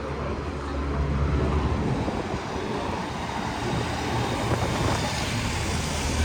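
Low engine rumble from a motor vehicle, growing louder about a second in, over a steady hiss.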